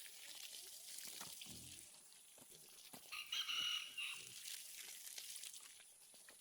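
A rooster crows once, a call about a second long near the middle, over a steady high-pitched hiss.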